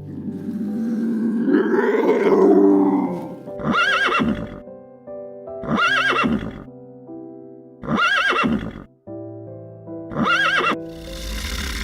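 Whinnying calls of a horse-family animal, as four short calls about two seconds apart that rise and fall in pitch, after a longer wavering call at the start. Background music plays throughout.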